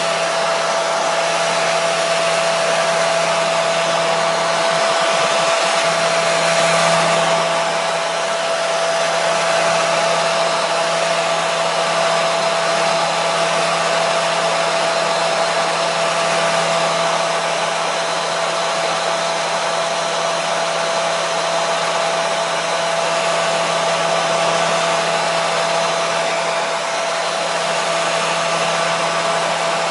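Hair dryer running steadily: an even rushing hiss from its fan and airflow with a constant motor hum.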